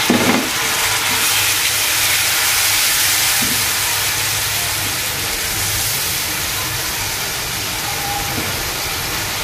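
Onion and spice masala sizzling in hot soybean oil in a frying pan just after a little water has been added, a steady hiss, while it is stirred and fried down with a silicone spatula.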